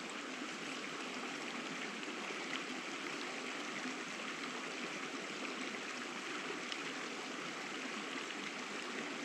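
Small stream flowing with a steady, even rush of water.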